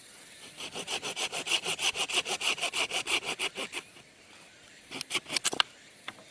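Hand saw cutting wood in quick, even back-and-forth strokes, about seven a second, for roughly three seconds; after a short pause a few more strokes follow.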